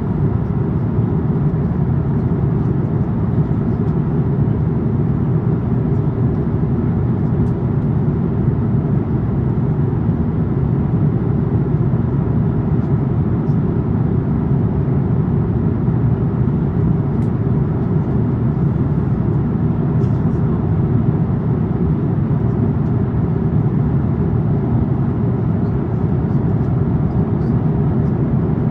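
Steady low roar inside an Airbus A350-900 cabin in flight, the air rushing past the fuselage and the Rolls-Royce Trent XWB engines blending into an even noise with no change in level.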